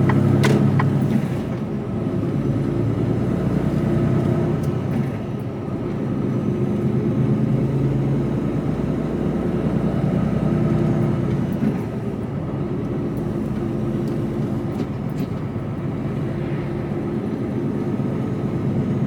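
Mercedes Actros lorry's diesel engine and road noise heard from inside the cab while driving: a steady low drone whose engine note shifts a few times.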